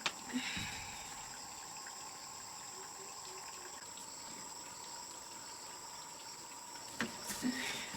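Insects calling in a steady, high-pitched drone, with a few light knocks at the start and again about seven seconds in.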